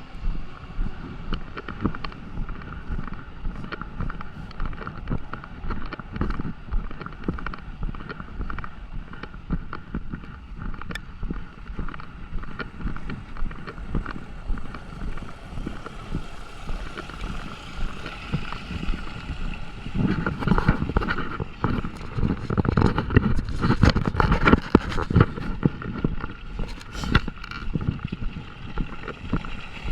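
Steady rain falling, with many sharp close drop hits and walking footsteps on wet pavement. About two-thirds of the way in, a louder low rumble builds for several seconds and then fades.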